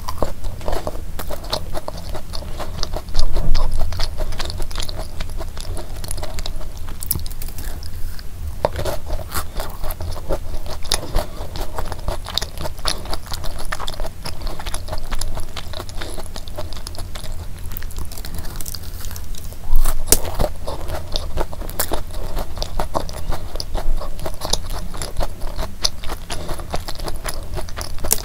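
Close-miked chewing of a thick, soft Levain-style chocolate cookie: a steady run of small wet chewing clicks and crunches. There are two louder bites, about three seconds in and again a little past the middle.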